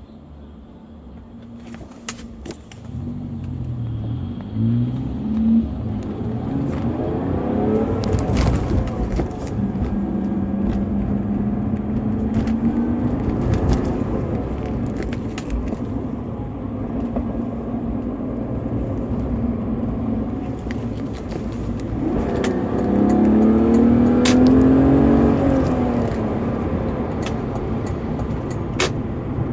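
BMW E46 320i's stock 2.0-litre M52TU inline-six running and revving, its pitch climbing and falling several times, the biggest rise about three-quarters of the way through. A few sharp clicks are heard among it.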